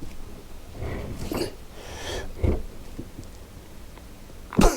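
A man giving a few short grunts and hard breaths of effort as he strains at a motorcycle front fork leg that will not slide out of its clamps. The last grunt, near the end, is the loudest.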